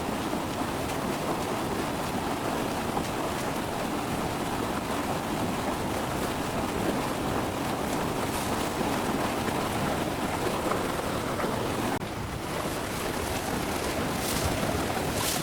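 Steady rushing of a flowing stream. The sound changes abruptly about twelve seconds in, and a few faint light ticks follow near the end.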